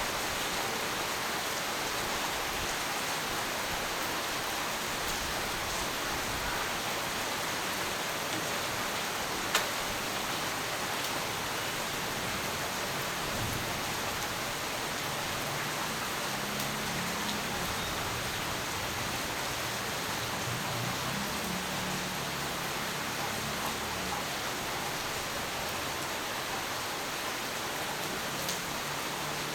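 Steady heavy rainfall, an even hiss of rain on surfaces, with one sharp drip tick about a third of the way in. Faint low rumbling sits under the rain through the middle stretch.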